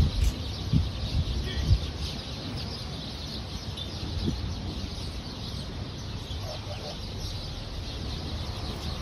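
Birds chirping in the background, with a few soft low thumps in the first two seconds and once around four seconds in.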